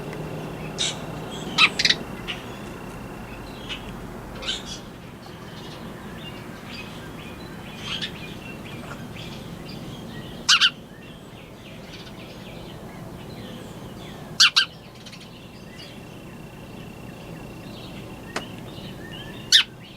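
Small birds chirping close by: a few short, loud chirps, some in quick pairs, over fainter chirping from other birds.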